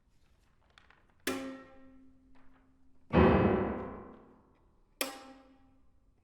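Violin, cello and piano trio playing contemporary chamber music in sparse, isolated accented strokes separated by near silence. A sharp attack comes about a second in, a loud, low, heavy chord rings away about three seconds in, and another sharp stroke comes near the end, each left to decay.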